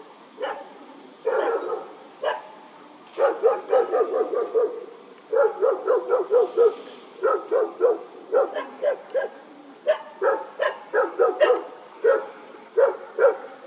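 A dog barking in quick runs of short, high-pitched barks, several a second, with brief pauses between the runs.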